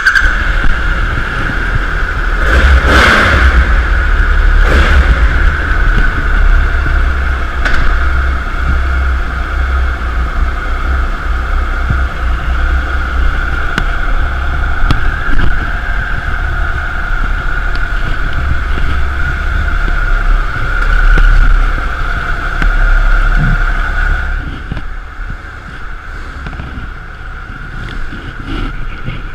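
Motorcycle on the move: its engine running under way, with heavy wind buffeting on the microphone and a few knocks in the first several seconds. The sound eases off somewhat near the end.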